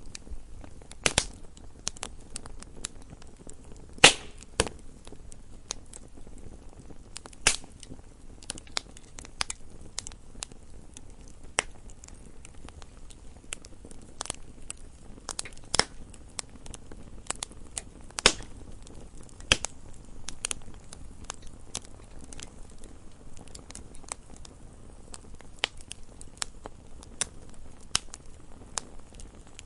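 Wood fire burning in a fireplace: a steady low rustle with frequent sharp, irregular crackles and pops from the burning logs, one louder pop about four seconds in.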